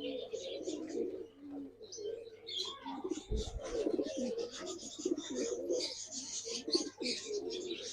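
Several domestic pigeons cooing together in a loft: a continuous low warbling murmur with many short, high, scratchy sounds over it. There is a brief low bump about three seconds in.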